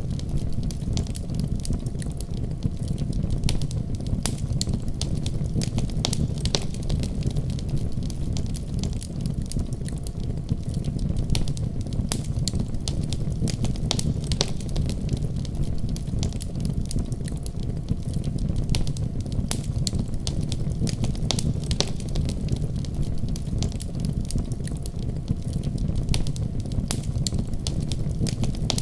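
Wood fire burning in a fireplace: a steady low roar of flames with frequent sharp, irregular crackles and pops from the burning logs.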